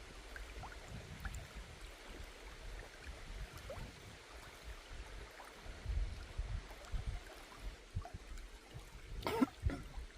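Small river running steadily, with uneven low rumbles and one sharp knock about nine seconds in.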